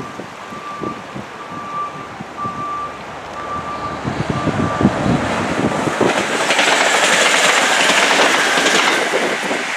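Arriva Trains Wales Class 175 diesel multiple unit approaching and running past close by at speed without stopping, its rush of wheels and air building to its loudest from about six to nine and a half seconds in. In the first half a reversing alarm beeps about once a second, then stops.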